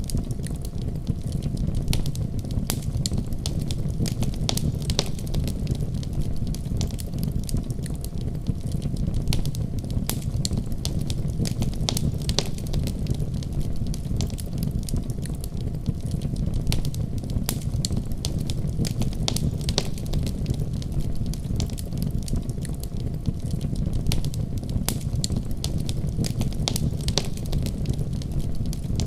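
Wood fire crackling in a fireplace: frequent sharp pops and snaps scattered irregularly over a steady low rumble.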